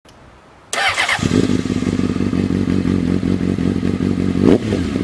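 A motorcycle engine starts up about a second in and then runs steadily with an even pulsing beat. Near the end there is a short rise in pitch from a quick blip of the throttle.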